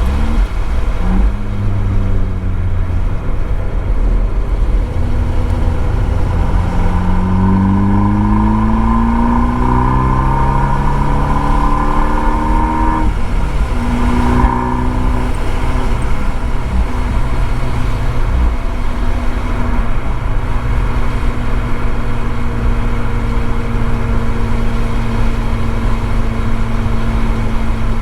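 Abarth 595 esseesse's turbocharged four-cylinder engine through an Akrapovič exhaust, heard from a microphone in the trunk. It pulls through a long, steady climb in revs, drops in pitch at upshifts around the middle, then holds steady revs, over a constant background hiss.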